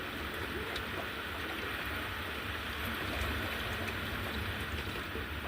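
Rain falling steadily in a thunderstorm, an even hiss with a low rumble beneath it.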